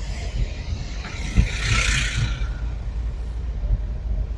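A vehicle passes, its hiss swelling and fading over about two seconds, over a steady low rumble.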